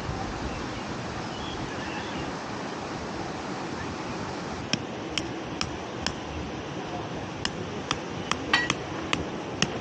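Tent pegs being hammered into the ground: sharp metallic strikes with a brief ring, irregular at about two a second, starting about halfway in, over a steady rushing noise.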